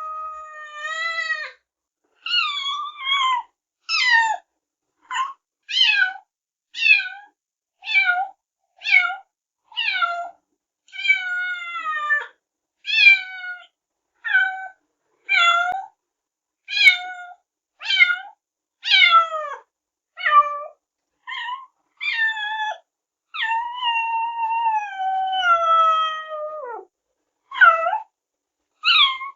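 Kittens meowing: a run of short, high calls about one a second, many falling in pitch, with one longer drawn-out meow about two thirds of the way through.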